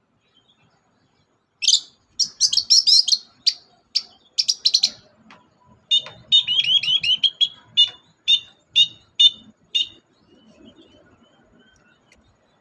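Long-tailed shrike singing: bursts of rapid, harsh chattering notes, then from about six seconds in a run of quick repeated notes that stops near ten seconds.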